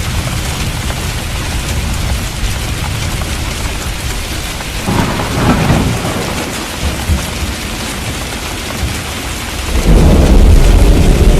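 Steady rain falling, with thunder rumbling: a swell about five seconds in and a louder, deeper roll of thunder near the end.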